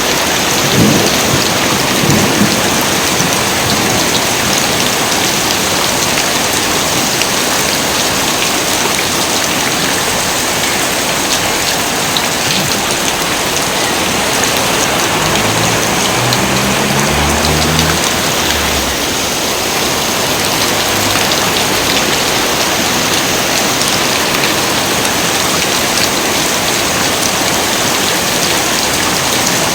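Heavy rain pouring steadily, with low rumbles of thunder in the first couple of seconds and again about halfway through.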